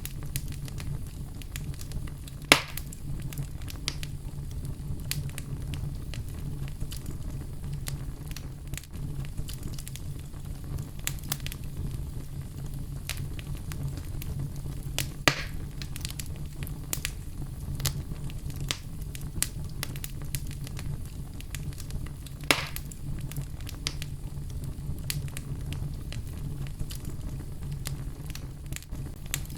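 Wood fire burning in a fireplace: a steady low rumble with scattered sharp crackles and pops, the loudest pops about two and a half seconds in, around fifteen seconds in, and around twenty-two seconds in.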